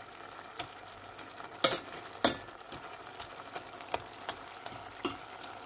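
Onion-tomato masala frying gently in oil in a stainless steel pot, a steady soft sizzle, while a steel ladle stirs it and knocks against the pot in a handful of sharp clicks.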